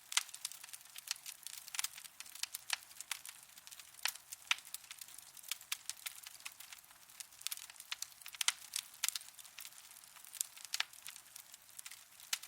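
Wood fire burning in a fireplace, crackling with irregular sharp pops, several a second, over a soft hiss.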